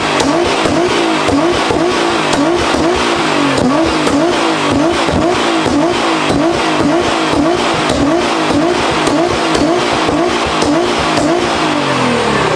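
Nissan GT-R engine free-revving while stationary. The throttle is blipped over and over, about twice a second, so the exhaust note rises and falls in a steady rhythm.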